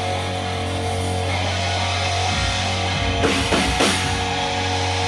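Live rock band playing with no vocals: held bass and guitar chords, with drum hits about two and a half seconds in and a few more between three and four seconds in.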